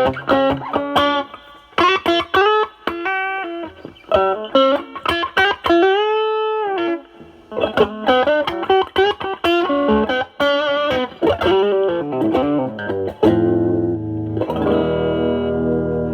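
Semi-hollow electric guitar played through a Nobels ODR-1 overdrive pedal, with its drive set around 10 to 11, into a Marshall Valvestate amp on its clean channel. It plays a lead line of quick picked single notes, with one note bent up, held and let back down about six seconds in. A chord struck about thirteen seconds in rings on to the end.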